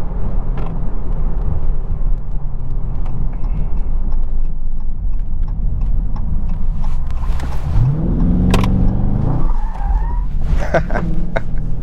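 The 2020 Dodge Charger Scat Pack's 6.4-litre V8 rumbles steadily at low revs. About eight seconds in it revs up hard under acceleration, with a sharp crack near the top of the rise.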